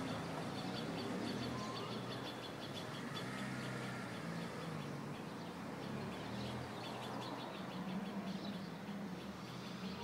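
Small birds chirping rapidly and repeatedly in the background, over a low wavering hum.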